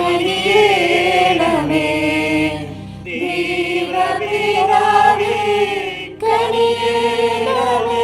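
Slow background prayer music with a choir-like, wordless vocal sound, in three long held phrases of about three seconds each.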